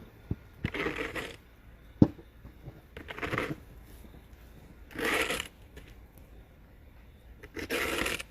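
Snow being scraped or crunched in short strokes, five of them about two seconds apart, with a single sharp knock about two seconds in.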